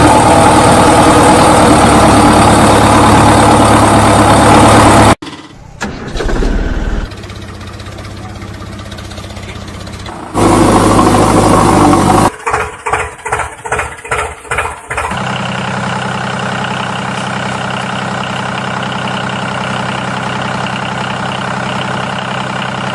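Heavy diesel machinery engines running: a loud drone that cuts away after about five seconds, a run of evenly spaced pulses about twelve seconds in, then a steady, even running to the end.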